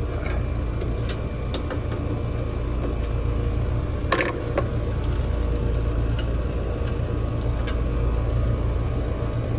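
Residential AC condenser running: the compressor and condenser fan make a steady low hum, now powered through a newly replaced dual run capacitor. A few light clicks sound over it, the loudest about four seconds in.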